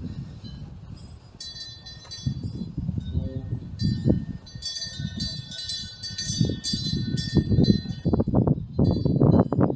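Temple eave wind bells (punggyeong) ringing in the breeze, with a flurry of high metallic clinks through the middle, over gusts of wind rumbling on the microphone that grow stronger toward the end.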